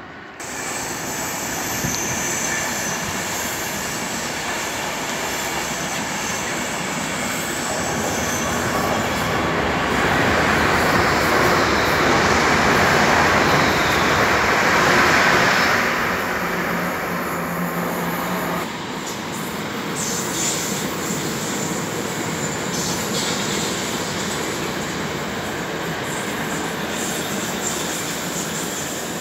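Running noise heard from inside a moving London Overground Class 378 electric train: a continuous rumble of wheels on rails. It swells to its loudest about halfway through as another train passes close alongside, then settles back.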